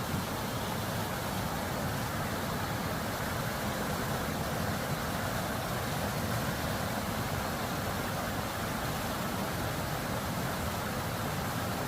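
Mountain stream water flowing and splashing over rocks, a steady rushing with no change.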